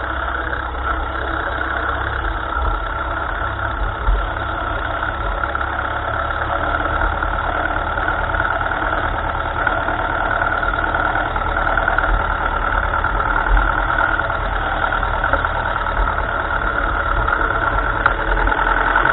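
1955 Ferguson tractor's engine running steadily, picked up close through a camera fixed to the steering arm, with a few light knocks.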